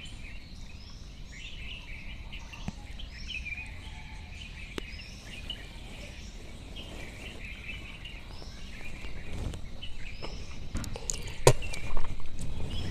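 Outdoor birdsong: one bird repeating a short rising call about once a second over steady chirping from others. A few sharp knocks and rustles come near the end, louder than the birds.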